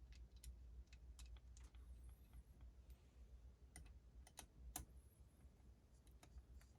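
Faint, scattered light clicks and taps from small engine parts and hand tools being handled, with a quick run of louder ones about four to five seconds in, over a low steady hum.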